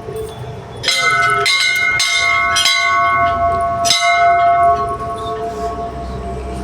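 Temple bells struck about five times in quick succession, each strike ringing on in a long clear tone that overlaps the next.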